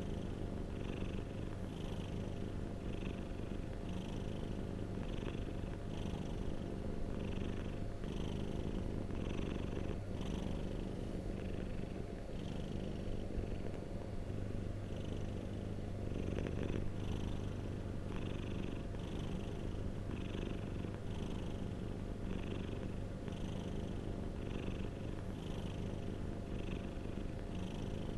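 Domestic cat purring steadily in a continuous low rumble, with a faint hiss pulsing in an even rhythm over it.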